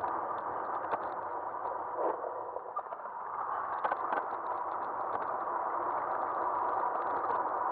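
Riding noise of an e-bike picked up by a camera mounted on its front: a steady rush of wind and tyres on pavement, with small rattling clicks from the bike. The rush eases slightly about two to three seconds in, then picks up again.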